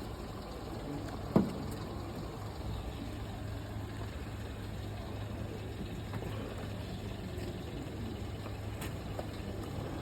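A car engine idling, a low steady hum, from the donor car running for a jump-start. One sharp click or knock about a second and a half in.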